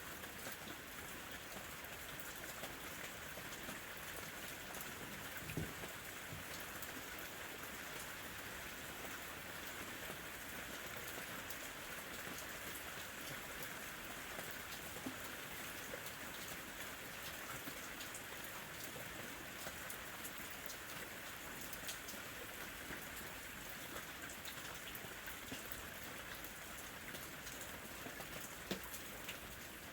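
Steady light summer rain falling, an even hiss with scattered individual drops tapping on a surface, two of them a little louder, about five seconds in and near the end.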